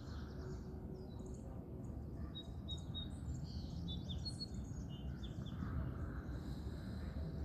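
Small songbirds chirping and twittering in short, overlapping calls over a steady low rumble of background noise.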